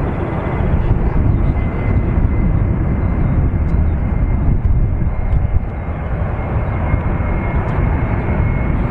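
Jet airliner engines running, a loud low rumble with a thin steady turbine whine that rises slightly in pitch near the end.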